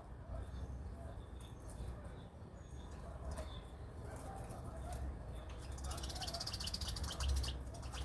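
Small birds chirping in short high calls, breaking into a fast chattering run of chirps about six seconds in, over a steady low rumble.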